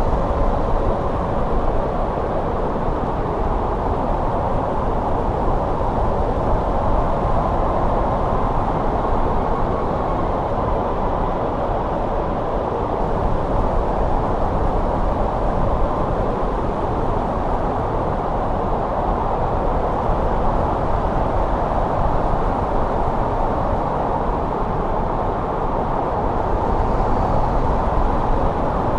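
Steady, howling winter wind blowing snow, a continuous deep rush with a faint whistling tone in it.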